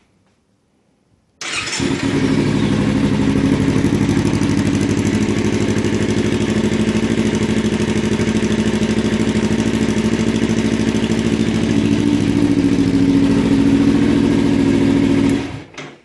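2016 Kawasaki Ninja 300's parallel-twin engine starting about a second and a half in and running steadily through an aftermarket carbon muffler with its removable baffle installed, then switched off near the end.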